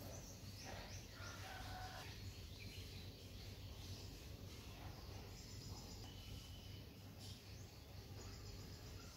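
Quiet background: a steady low hum with a few faint, short bird chirps scattered through it.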